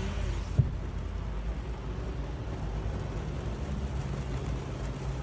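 Heavy rain falling on a car, heard from inside the cabin, over a low steady hum from the car, with a single short knock about half a second in.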